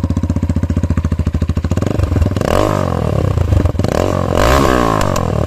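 Motorhead Scrambler 250 motorcycle engine running with its exhaust silencer removed: a loud open-pipe idle with rapid, even firing pulses. From about two seconds in it is revved up and back down twice.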